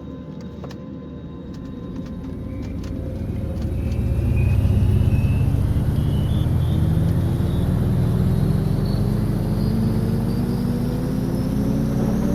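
Airliner engines spooling up to takeoff power, heard from inside the cabin. A whine climbs steadily in pitch over a deep rumble that grows loud about four seconds in and then holds, as at the start of the takeoff roll.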